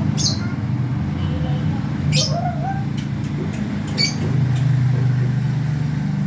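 Lovebirds giving short, sharp, high-pitched chirps, three times, over a steady low hum.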